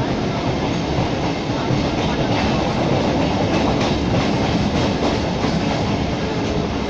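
Passenger train running along the track, heard from on board: a steady rumble and rattle, with a quick run of wheel clicks over rail joints about halfway through.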